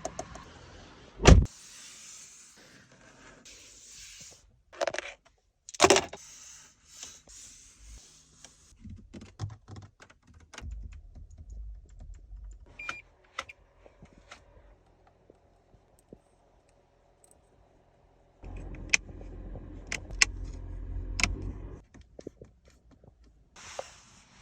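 Toyota RAV4 body and cabin fittings being worked to show their build quality. There are two sharp thuds about a second in and around six seconds in, scattered clicks and rattles, and a few seconds of motorised whirring with clicks in the last third.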